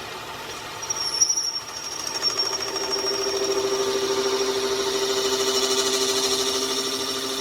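A sharp mechanical clatter about a second in. Then a machine runs up and holds a steady pitched hum with a high whine over it.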